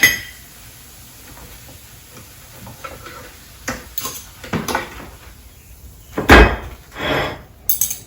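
Kitchen handling sounds as a cooked waffle is taken out of a waffle maker: a few light knocks and clatter, then one louder thump about six seconds in.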